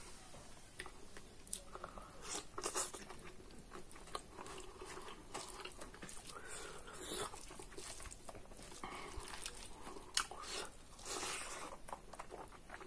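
A person chewing a mouthful of spicy pork belly and rice close to the microphone: irregular wet smacks and clicks.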